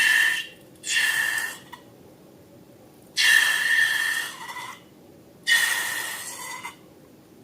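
Air let out through a stretched balloon neck in four bursts, each a hiss carrying a steady high squeal.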